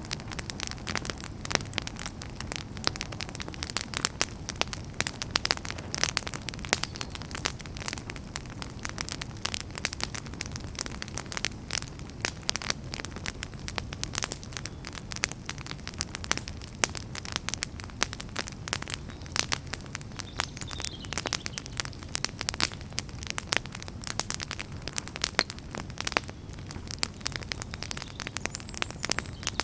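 Wood fire burning with constant irregular crackling and popping over a low steady rumble of the flames.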